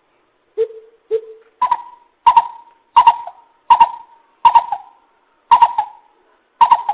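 Greater coucal lure call: a run of deep hoots, two lower ones followed by about seven higher-pitched ones, spaced a little under a second apart.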